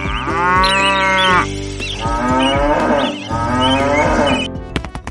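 A cow mooing three long times, over quiet background music. Near the end a fast, even tapping beat starts.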